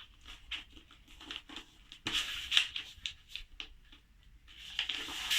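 A sheet of letter-size paper rustling and crackling in the hands as it is folded and creased, in quick irregular crinkles. There is a denser flurry about two seconds in and another near the end.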